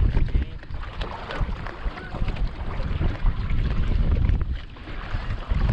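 Wind buffeting the microphone aboard a small sailboat under way, with water rushing along the hull; a choppy, uneven rumble with no steady tone.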